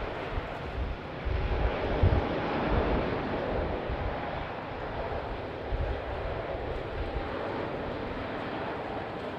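Jet airliner's engines rushing as the plane passes, swelling a couple of seconds in and then slowly easing off, with wind buffeting the microphone.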